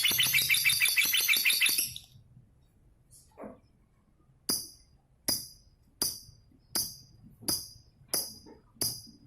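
A lovebird's long, rapid chattering trill for about two seconds, then it stops. From about halfway in, a steady jingling percussion beat, like a tambourine, strikes about every 0.7 s.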